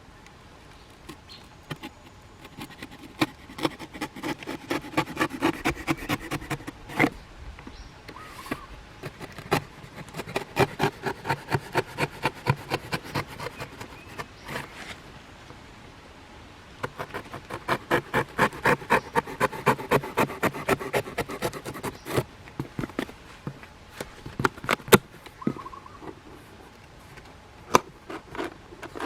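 Rapid rhythmic scraping or rubbing strokes from hand work on a hard material, about five or six strokes a second, in three runs of several seconds each with short pauses between.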